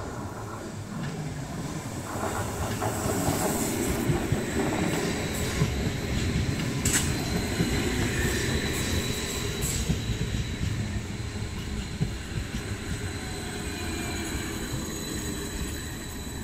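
A train passing on the rails: a steady rumble of wheels that grows after about two seconds and eases off near the end, with a thin high wheel squeal and a few sharp clacks over the rail joints.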